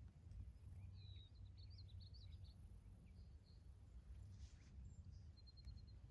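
Near silence with a faint low outdoor rumble; a bird sings a short twittering phrase about a second in.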